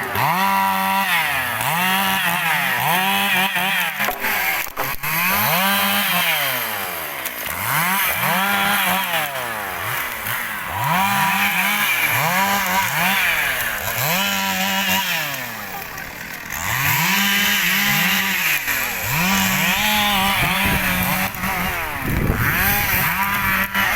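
Chainsaw cutting timber, its engine pitch rising and falling over and over, roughly once every two seconds.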